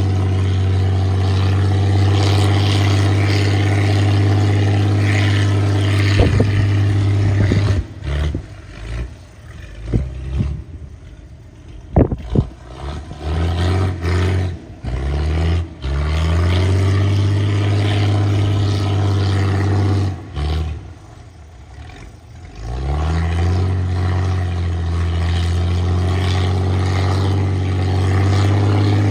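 Engine of a sludge-suction dredge boat running steadily. Twice it drops away, then climbs back up in pitch as it revs up again.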